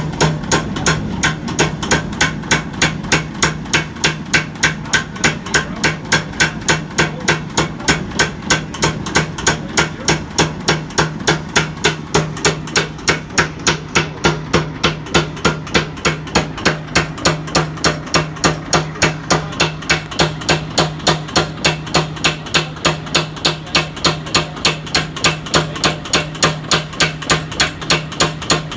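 Power hammer striking hot steel through double fuller dies in a steady, fast, unbroken rhythm over a low motor hum, spreading out the blade of a forged tomahawk head.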